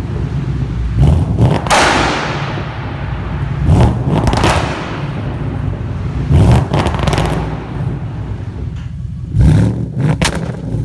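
Ford Mustang GT 5.0 V8 running through an MBRP cat-back exhaust, revved in several sharp throttle blips, each rising quickly and then fading back toward idle.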